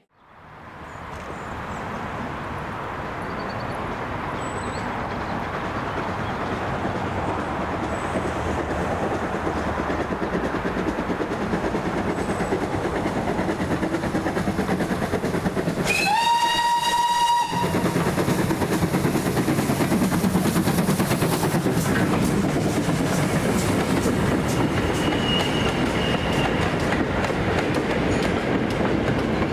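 GWR 2884 Class 2-8-0 steam locomotive No. 3850 running with its train, growing steadily louder as it approaches. Just past midway it sounds its whistle once, a single high note of about a second and a half, then keeps running loud.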